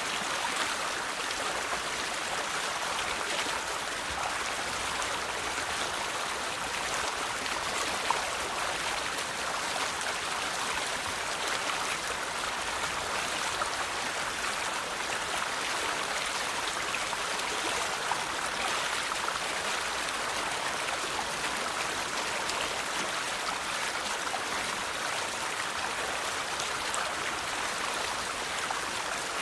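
River water flowing in a steady, continuous rush, with a few brief, sharper splashes.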